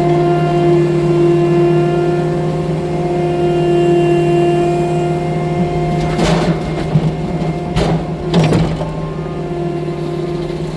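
Tracked skid steer loader's engine running steadily, with a few sharp clunks of the machine about six and eight seconds in.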